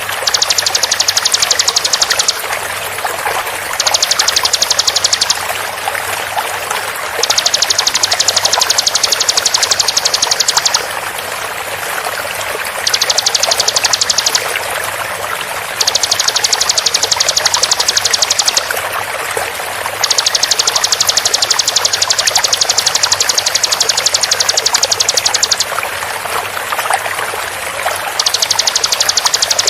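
Bar-winged prinia (ciblek) giving fast, dense high trills of rapidly repeated notes, in about seven bursts of one to five seconds with short pauses between. Underneath runs the steady rush of flowing water.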